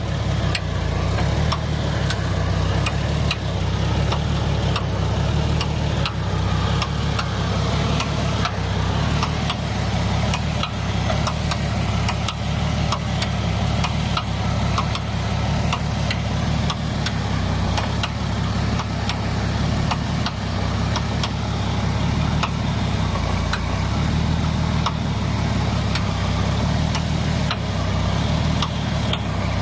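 The Jeep Cherokee's 4.6-litre inline-six engine idling steadily, with faint scattered clicks over the low engine note.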